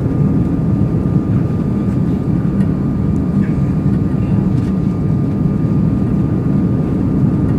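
Steady cabin noise of an Airbus A340-300 in flight on approach: the low rush of its engines and airflow heard inside the cabin, with a thin steady high tone running through it.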